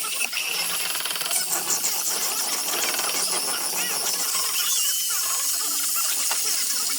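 Power sanding tool running steadily against the wood of a zelkova basket, a continuous grinding hiss.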